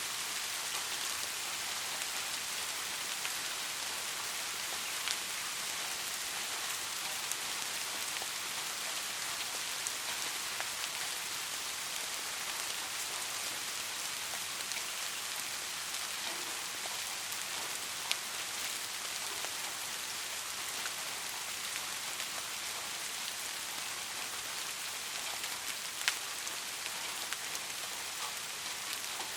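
Steady rainfall: an even hiss of many drops, with a few louder single drops ticking close by now and then.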